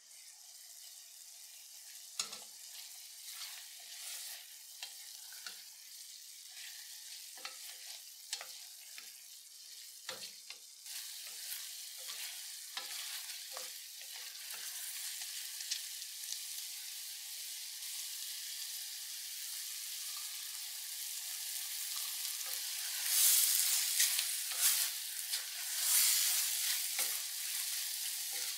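Mushroom masala frying in a stainless steel pan, a steady sizzle, while a wooden spatula stirs and scrapes with scattered short knocks against the pan. The mixture is almost dry, and the sizzle gets louder about ten seconds in and is loudest near the end while it is stirred.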